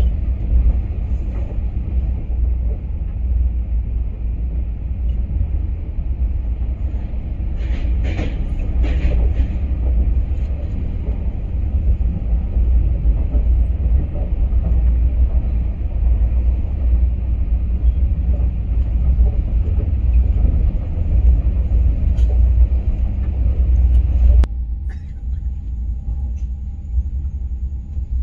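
Steady low rumble of an Indian Railways superfast express train running at speed, heard from on board as it passes through stations without stopping. A couple of short rattles come about eight seconds in. Near the end the sound changes abruptly to a quieter, thinner rumble.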